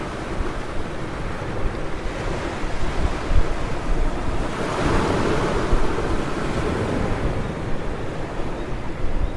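Sea waves breaking and washing up a beach, with wind buffeting the microphone. A wave swells in about halfway through and then fades.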